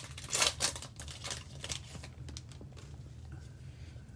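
Trading cards and their pack wrapper being handled: two rustling, crinkling bursts in the first two seconds, then fainter scattered rustles, over a steady low hum.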